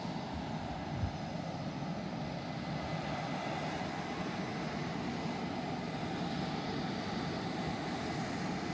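Steady jet engine noise from F/A-18 Hornets running on the airport ramp, heard from a distance.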